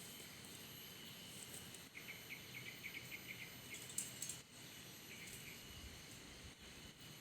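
Faint steady shrill of night insects such as crickets, with a short run of quick chirps about two seconds in and a single click about four seconds in.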